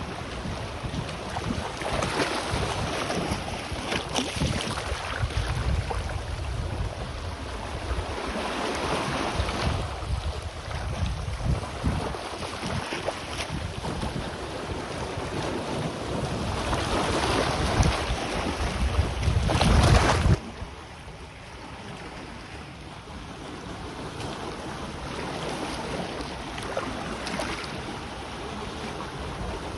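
Sea waves washing in on the shore in swells every few seconds, with wind buffeting the microphone as a low rumble that cuts off suddenly about two-thirds of the way through.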